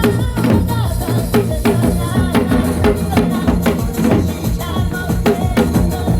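Janggu (Korean hourglass drum) beaten in a steady, even rhythm over a trot backing track with a running bass line.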